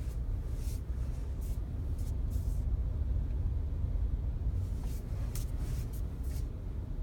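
Low steady rumble inside the cabin of a Volkswagen Passat B8, with a scattering of faint short ticks, a few in the first half and a cluster between about five and six and a half seconds in.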